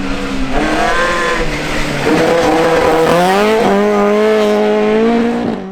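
Rally car engine running hard at high revs, its pitch climbing and stepping as it changes gear, then holding a steady high note until it fades near the end.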